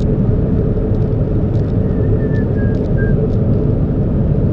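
Steady low rumble of a car running, with a faint steady hum and a few faint high squeaks about two to three seconds in.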